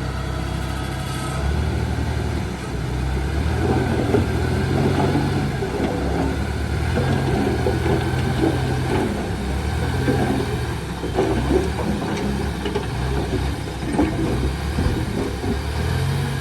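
Heavy diesel earthmoving machinery running. The engine note rises and falls again and again with the load, over a steady clatter.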